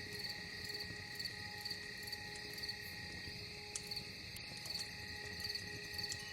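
Cricket chirping about twice a second over a soft, steady drone, with a low rumble and a couple of sharp campfire crackles about four seconds in.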